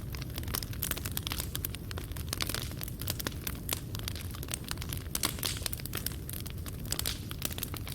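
Fireplace fire crackling, with dense, irregular sharp pops of burning wood and coals over a steady low rumble.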